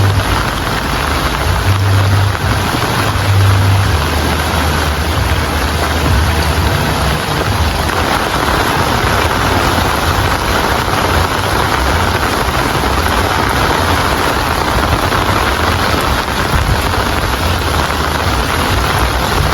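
Steady, heavy rain falling, a dense even hiss. A low rumble sits under it for about the first four seconds.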